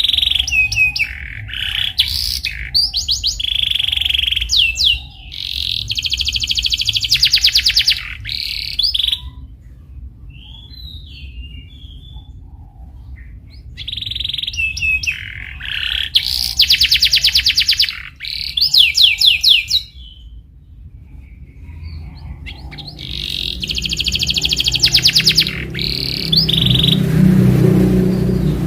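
Domestic canary singing in long passages of rapid rolling trills and chirps, with quick rising and falling sweeps, broken by pauses of a few seconds between passages.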